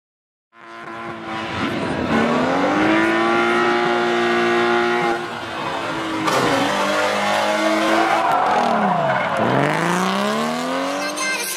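Drift car engine revving hard over tyre squeal. Its pitch climbs and holds high, dips sharply about nine seconds in, then climbs again.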